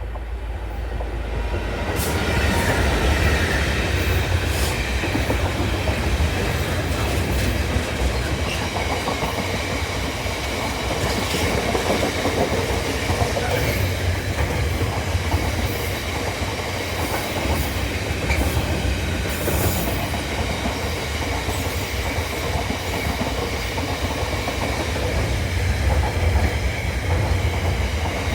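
Class 66 diesel locomotive 66799 hauling a long intermodal freight train past. The wagons make a steady rumble, with wheels clicking over the rail joints.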